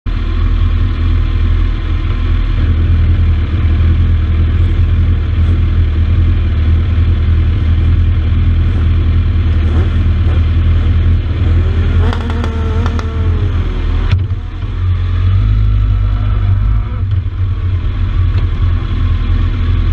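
Kawasaki ZX-12R inline-four engine of a racing sidecar idling close to the microphone with a loud low drone. Its note rises and falls briefly about twelve seconds in, and there is a sharp click about two seconds later.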